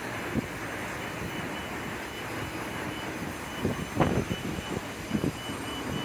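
Transperth electric multiple-unit train moving past the platform with a steady running rumble. A cluster of clunks from its wheels on the track comes at around four seconds in.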